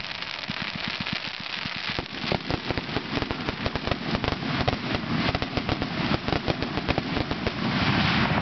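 Aerial fireworks bursting and crackling: a dense run of sharp pops, many a second, with a few heavier bangs among them. The popping thickens about two seconds in.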